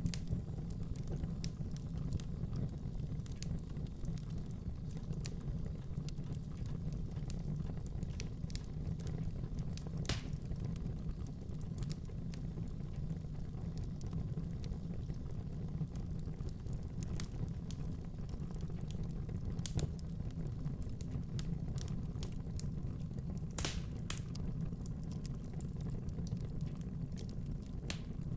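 Wood fire burning in a fireplace: a steady low rumble of the flames with scattered sharp crackles and pops, a few louder ones about ten seconds in and again near the end.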